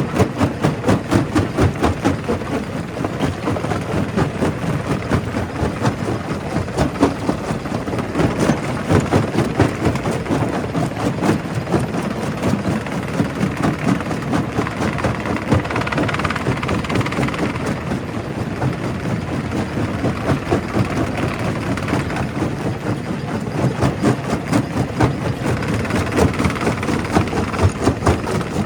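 Quarry primary rock crusher working: a steady heavy machine drone with dense, irregular knocking and clatter of rock being broken, with no let-up.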